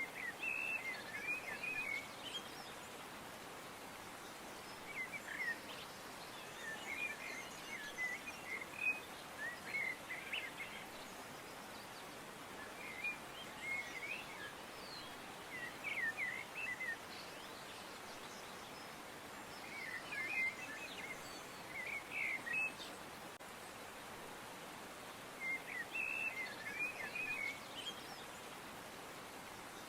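Small songbirds chirping in short clusters of quick notes every few seconds, over a steady background hiss.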